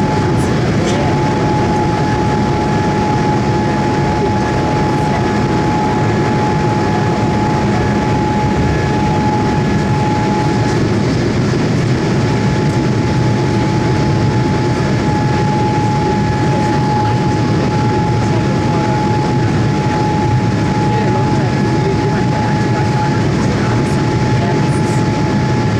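Steady cabin noise inside a Boeing 787 Dreamliner: a constant rumble of engines and airflow with a steady whine that drops out briefly about halfway through.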